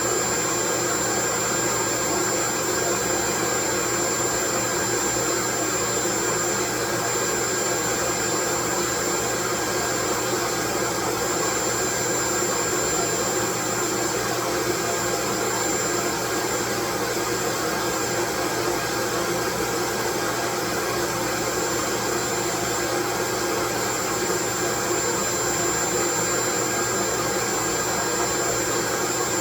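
Steady, unchanging white-noise track: a loud, even hiss with a thin, constant high whine running through it.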